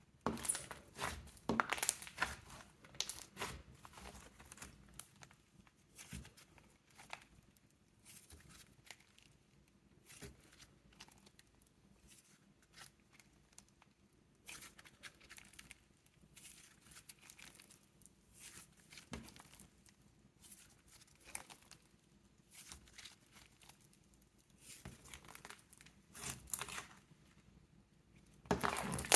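Slime being stretched and pressed by hand, giving crinkly, crackling pops in scattered bursts. The bursts are densest in the first few seconds and again near the end, with quieter gaps between.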